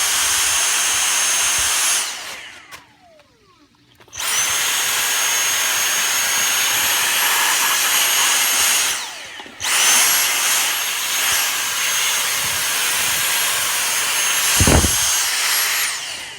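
Dyson V6 Trigger handheld vacuum running with a high-pitched whine as it sucks up dirt. It stops about two seconds in and winds down, starts again two seconds later, cuts out briefly around nine seconds, then runs until just before the end. A brief knock about a second and a half before it stops.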